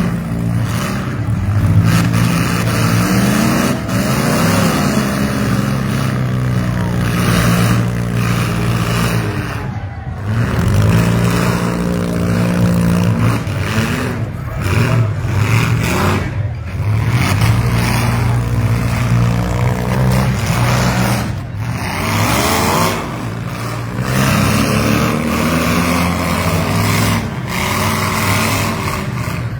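Engines of demolition derby vans, SUVs and mini trucks running hard, revving up and down again and again as the vehicles drive and ram each other.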